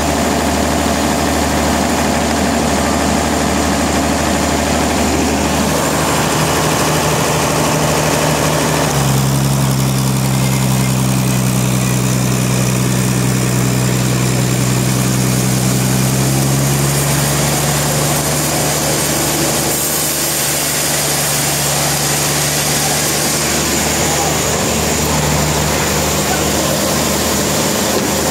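Sawmill engine running steadily with a low hum, its note changing about nine seconds in and again around seventeen seconds.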